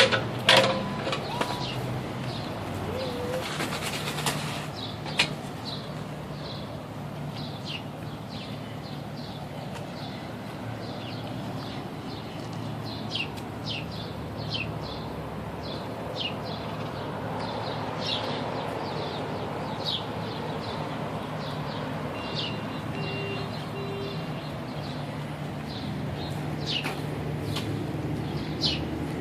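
Small birds chirping: many short, high chirps scattered irregularly over a steady low hum, with a few soft knocks in the first few seconds.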